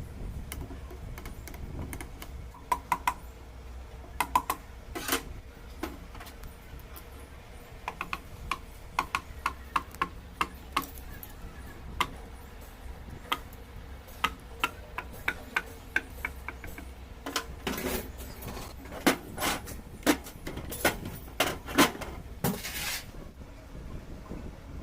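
Hand tools clicking, tapping and clinking on metal engine parts during repair work: scattered sharp knocks, some with a short metallic ring. Stretches of regular clicking run at about two to three a second, and the knocks are loudest and most frequent near the end. A steady low hum sits underneath.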